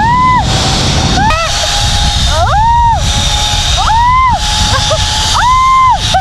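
Zipline trolley whining along the steel cable, its high pitch swinging up and back down several times, over heavy wind rushing across the microphone during the ride.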